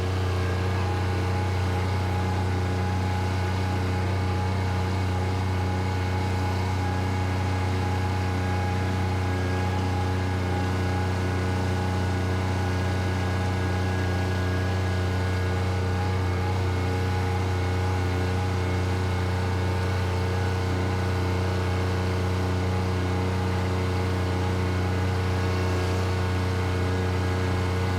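Bobcat skid-steer loader's diesel engine running at a steady speed: an unchanging low hum with a stack of steady tones above it.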